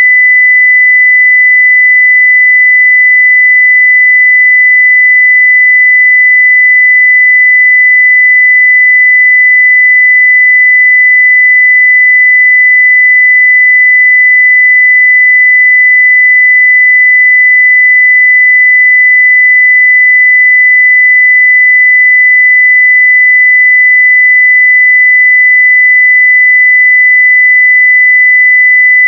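A 2 kHz sine-wave test tone at 0 dB full scale, a single pure pitch held perfectly steady and loud.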